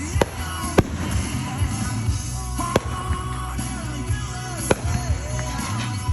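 Fireworks going off in about five sharp bangs, spaced one to two seconds apart, over music playing continuously.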